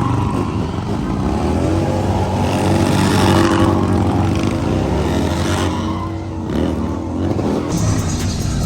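Motorcycle engine revving, its pitch climbing over the first few seconds and then easing back down.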